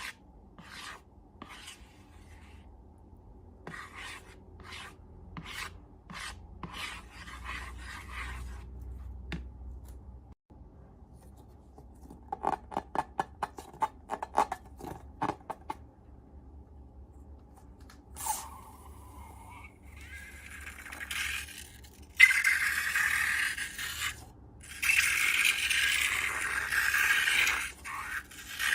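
Close scraping and rubbing from handling slime and balloons. Separate soft strokes come first, then a quick run of clicks about halfway through, and denser, louder scraping near the end.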